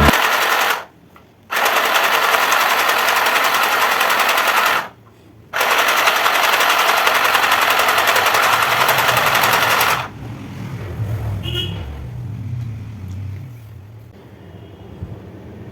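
Mini electric sewing machine stitching with a fast, loud rattle of the needle. It runs in three stretches with two brief stops, then stops about ten seconds in, leaving quieter handling sounds.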